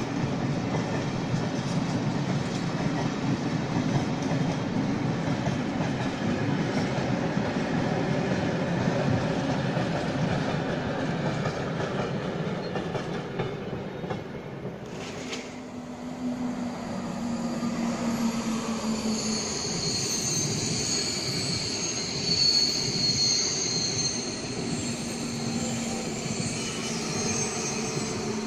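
Train passing on the line: a steady rumble of wheels on rail for the first half. From about two-thirds of the way in come high-pitched wheel squeals over a low hum.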